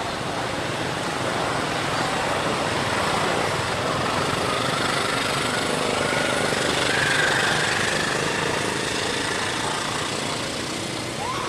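A motor vehicle's engine passing by amid road noise, growing louder to a peak about seven seconds in with a faint rising whine, then fading.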